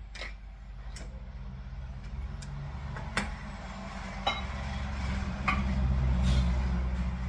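A handful of separate sharp clicks and knocks of kitchen utensils and cookware, over a steady low hum that grows louder in the second half.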